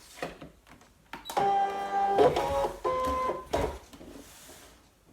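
Brother ScanNCut electronic cutting machine's stepper motors running for about two seconds, a buzzing whine that jumps between a few steady pitches as the machine moves. Light handling clicks come just before it.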